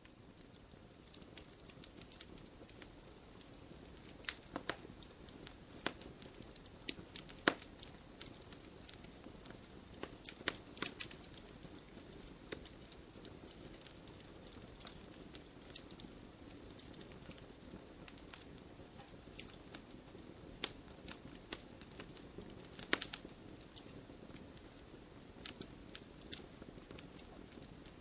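Campfire crackling: irregular sharp pops and snaps over a steady low hiss of burning wood, a few snaps standing out louder than the rest.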